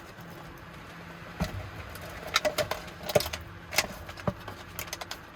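Car engine idling as a low steady hum, with a run of sharp clicks and knocks over it from about a second and a half in, like things being handled or doors and latches worked.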